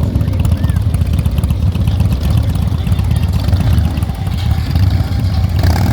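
Motorcycle engine running at low speed, a steady low pulsing sound.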